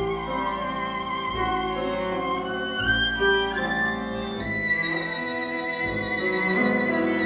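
Live chamber music: a violin plays a sustained, singing melody with vibrato over lower string accompaniment, moving from note to note every second or so.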